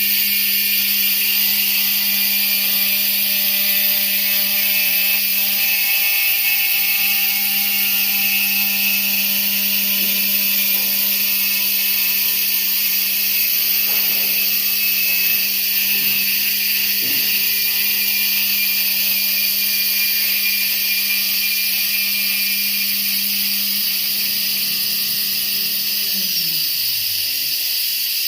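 Stone-carving CNC router spindle running at a steady speed, a constant whine over a loud high hiss; near the end the spindle winds down and its pitch falls.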